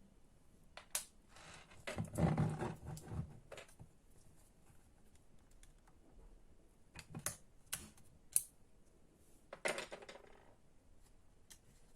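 Light clicks and short clatters of small plastic and metal parts being handled and set down, with a few sharp single clicks and two brief rattling stretches.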